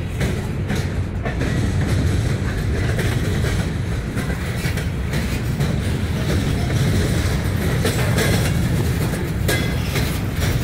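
Norfolk Southern freight train's tank cars and covered hoppers rolling past, a steady rumble of steel wheels on rail with scattered clicks as the wheels pass over the track.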